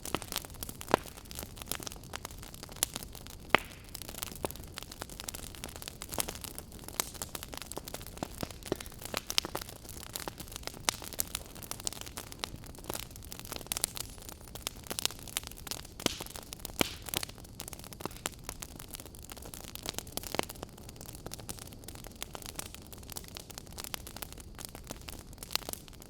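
Fireplace fire crackling: irregular sharp pops and snaps, a few of them louder, over a steady hiss.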